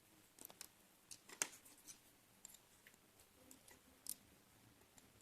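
Faint, scattered clicks and taps of multimeter probe tips being placed on the LED bulb's driver board, against near silence.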